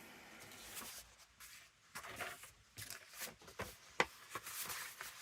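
Paper pages being handled and shuffled, faint rustling with a few light taps and clicks.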